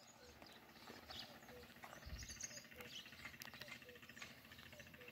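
Near silence with faint birds calling: scattered high chirps and a soft short note repeating a little under twice a second.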